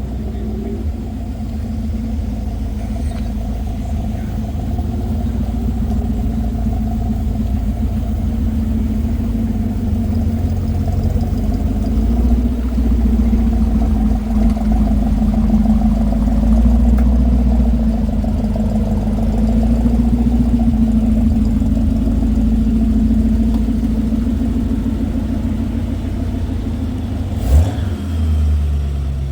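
Car engine running steadily with a low rumble that swells slightly and eases off, with a short sharp knock near the end.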